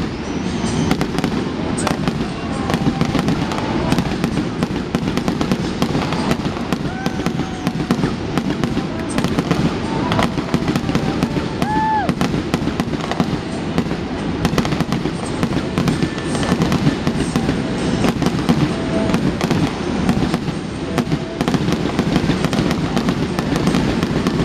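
Aerial fireworks display: a rapid, unbroken run of pops and crackles from bursting shells over a steady low rumble.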